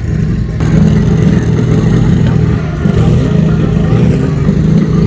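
Competition pulling tractor's engine running loud and steady.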